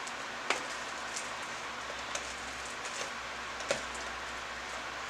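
Sticky slime being mixed and squished: a few short, sharp sticky clicks over a steady hiss.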